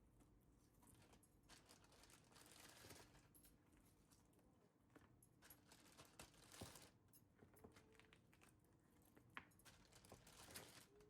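Faint rustling with a few light clicks and knocks of small objects being handled.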